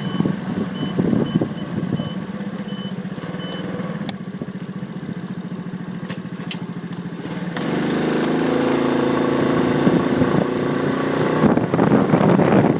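Motorcycle engine running at a steady idle, then about halfway through it gets louder as the engine picks up revs and the bike moves off. Near the end a rush of wind on the microphone joins it.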